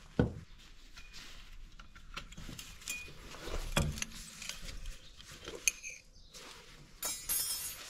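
Light metallic clinks and knocks from handling a new shock absorber and removing its wire packaging restraint, with a short, fast rattling scrape near the end.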